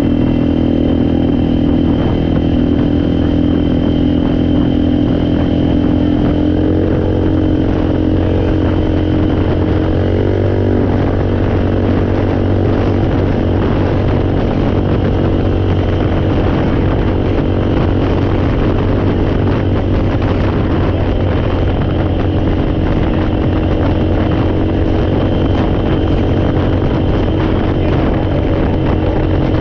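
ATV (four-wheeler) engine running steadily, its pitch stepping up about seven seconds in and again a few seconds later, then running on rougher.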